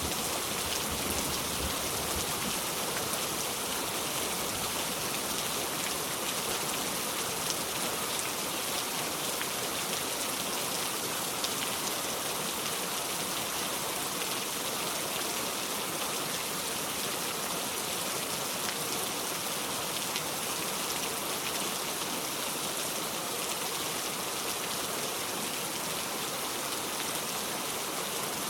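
Steady rain falling, an even continuous hiss with no breaks.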